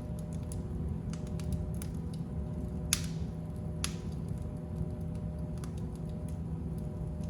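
Fire in a fireplace crackling: scattered sharp pops and snaps over a steady low rumble, with the loudest pop about three seconds in.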